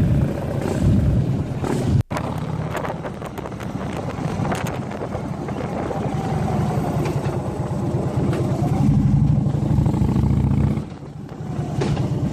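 Motorcycle engines running in a large group ride: a steady low rumble, broken by a very short gap about two seconds in and dipping briefly near the end.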